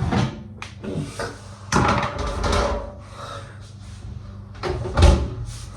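Knocks and clatter of a preheated metal pan being taken out of an oven and handled, with the oven door opening and closing; the loudest knock comes near the end.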